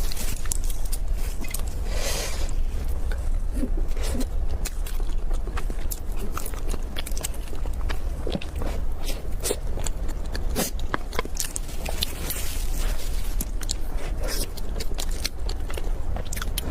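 A person chewing and biting a warmed, soft chocolate 'dirty bun' pastry close to the microphone, with many small mouth clicks and smacks over a steady low hum.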